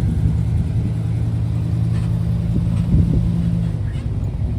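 Car engine running at a steady low speed, an even low hum that drops away a little before the end.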